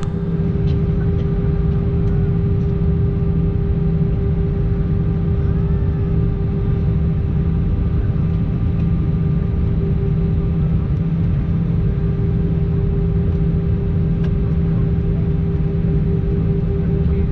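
Steady engine and airflow noise inside an Airbus A320 cabin: a deep, even rumble with a steady hum riding above it.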